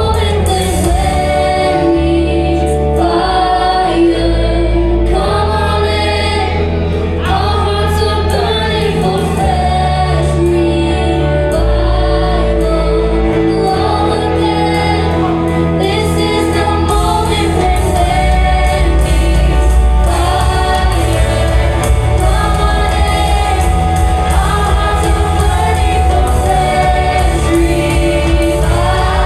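Congregational gospel praise music performed live: singers carrying a melody over sustained bass notes that change every few seconds.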